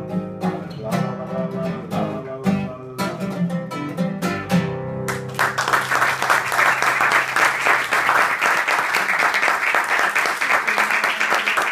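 Acoustic guitar playing the closing bars of a song, ending on a held chord; about five seconds in, audience applause starts and continues steadily.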